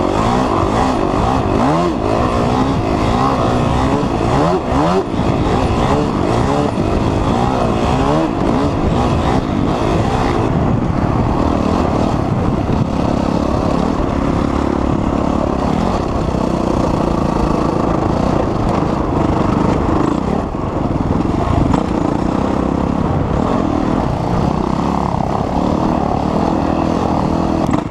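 Dirt bike engines revving and running hard. The pitch rises and falls repeatedly through about the first eight seconds, then holds steadier.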